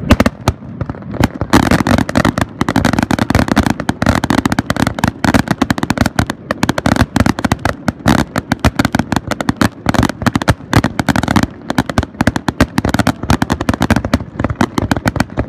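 Aerial fireworks grand finale: shell bursts going off in rapid, overlapping succession, many bangs a second with crackling between them. The barrage thickens about a second and a half in.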